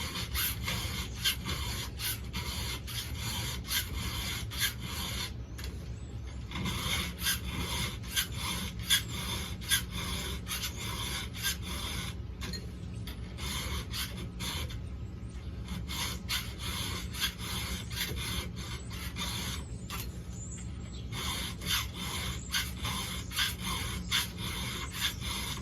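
7/32 round file being pushed across the cutters of a chainsaw chain, a rapid run of rasping strokes several per second, broken by short pauses a few times as it moves from tooth to tooth.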